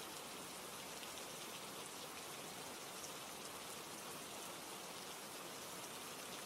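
Steady rain falling, an even soft hiss with a few faint scattered ticks of drops.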